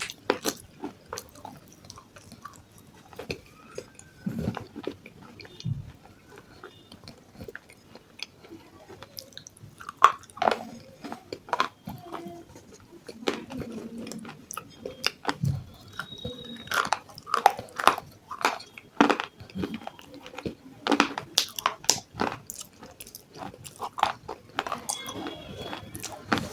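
Close-up biting and chewing of something crunchy: irregular sharp crunches, one after another.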